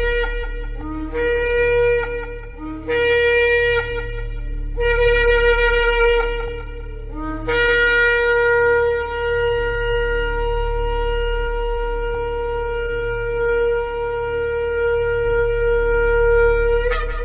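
Shofar sounding: four short blasts, each starting on a lower note and stepping up, then one long held blast from about seven seconds in that jumps up in pitch just before it ends. A steady low hum runs underneath.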